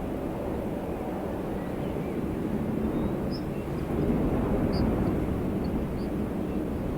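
Steady low wind blowing, swelling a little about four seconds in, with a few faint high bird chirps.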